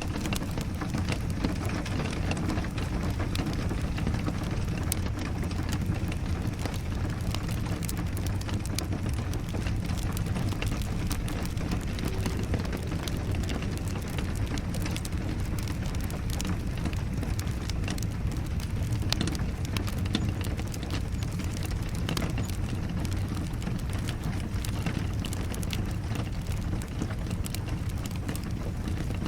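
Steady rain mixed with a crackling wood fire: an even hiss with a low rumble, dotted with many small sharp crackles.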